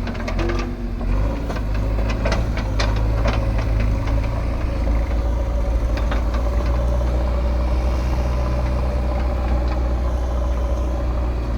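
Diesel engine of heavy earth-moving machinery running steadily with a deep, even hum, with scattered sharp clicks and knocks over the first half.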